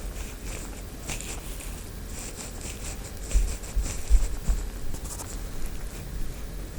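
Stainless steel ear pick scraping inside an ear canal close to the microphone: a run of short, quick scratchy strokes, with a few dull low bumps in the middle.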